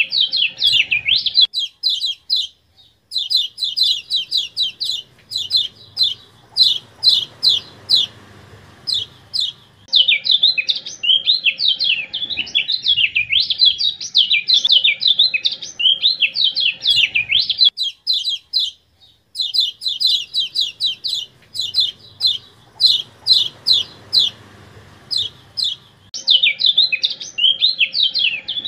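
Kecial kuning (Lombok yellow white-eye) song: rapid, high, sharp chirping phrases delivered in bouts several seconds long, separated by brief pauses. It is an edited masteran recording, modified with AI, of the kind used to train caged birds to sing.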